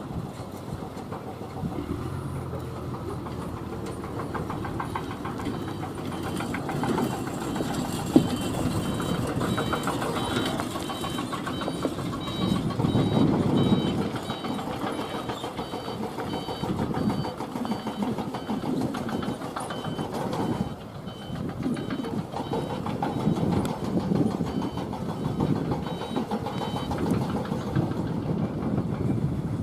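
Truck engines running on a rough incline, the rumble swelling and easing as the trucks pass. Through the middle there is a repeated high beeping.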